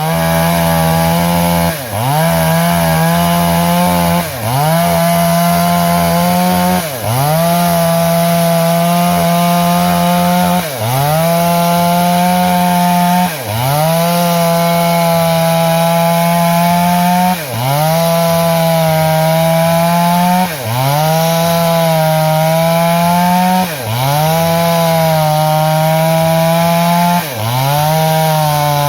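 Two-stroke chainsaw running at high speed while cutting through a log, its engine note dipping briefly and climbing back about every two to four seconds.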